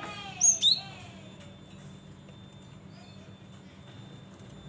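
Cinereous tit (gelatik batu) calling: two loud, sharp high notes that drop in pitch, about half a second in, then fainter notes. A low steady hum runs underneath.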